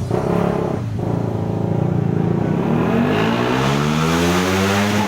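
A motor vehicle's engine accelerating, its pitch rising steadily over the last three seconds.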